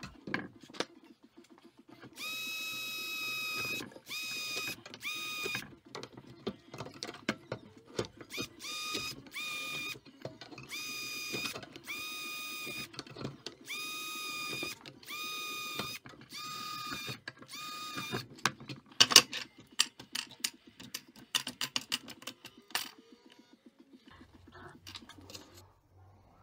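Electric drill boring rivet holes in a new winch brake band. The drill whines steadily in about a dozen short runs of one to two seconds each, with clicks and knocks of handling between them. Near the end there is a string of sharp clicks and knocks.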